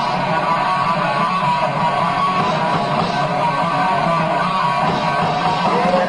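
Heavy metal band playing live, with electric guitar to the fore.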